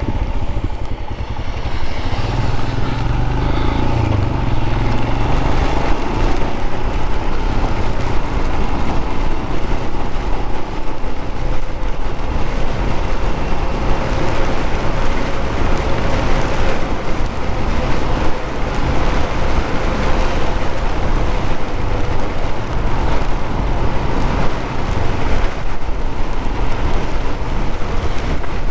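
Royal Enfield single-cylinder motorcycle running on the move, its engine note holding fairly steady with slight rises and falls, under heavy wind rush on the rider's microphone in the rain.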